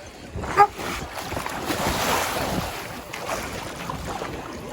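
Ocean waves breaking on the shore, swelling about two seconds in, with wind buffeting the microphone. A brief high-pitched call cuts through about half a second in.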